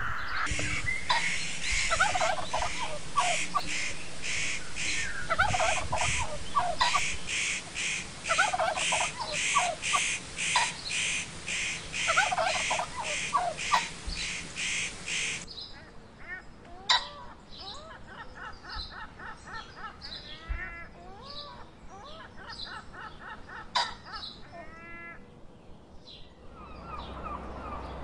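Birds calling in bunches of quick notes, over a steady high pulsing at about two pulses a second. About fifteen seconds in the sound changes to quieter, sharper repeated chirps with a few single clicks.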